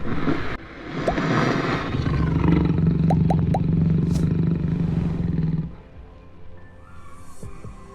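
Jaguar roaring: one long, rough roar that lasts about five seconds and then fades.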